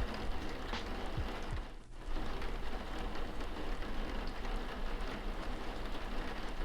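Steady rain falling, an even hiss of drops with no music over it, dipping briefly about two seconds in.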